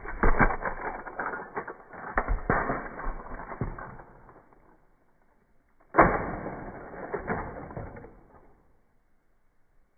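Two bouts of mechanical clattering and creaking full of sharp clicks. The first fades after about four seconds; the second starts suddenly about six seconds in and fades out over two seconds.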